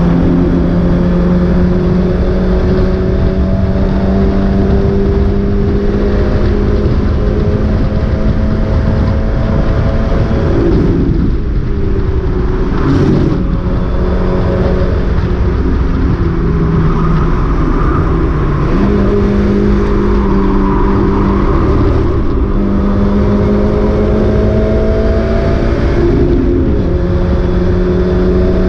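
Mazda MX-5 race car's four-cylinder engine heard from on board under racing load, its pitch climbing slowly, then falling away about eleven seconds in before pulling up again through the gears.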